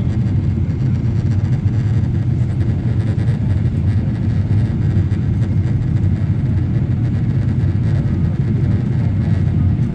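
Cabin noise of a Boeing 777-300ER in flight on approach: a steady low rumble of airflow and engines.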